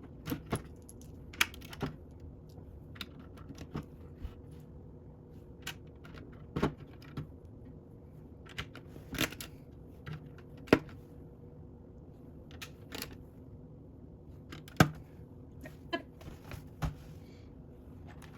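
Plastic Lego pieces clicking and clattering as they are handled and picked through, irregular sharp clicks with a few louder ones about eleven and fifteen seconds in, over a faint steady hum.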